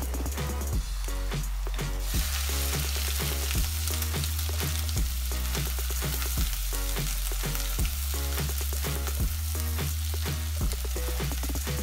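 Oil sizzling as chopped aromatics and whole spices fry in a non-stick pan, stirred with a wooden spatula, over background music with a steady bass line.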